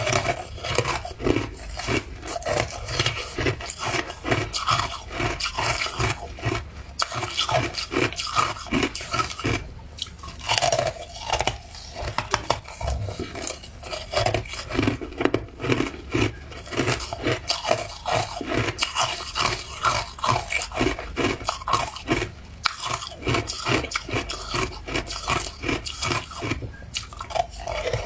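Ice being crunched and chewed close to the microphone: dense, irregular cracking crunches, several a second.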